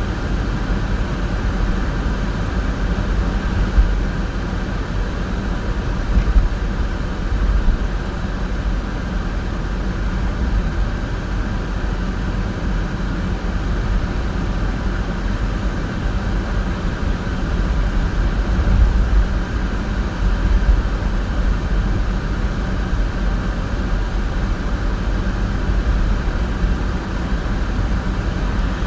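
Steady road and engine rumble of a car being driven, heard from inside, with a few small bumps along the way.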